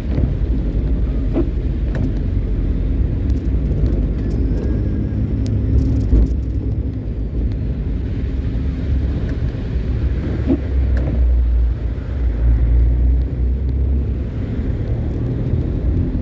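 A car driving, with a steady low rumble of engine and road noise and a few faint clicks scattered through it.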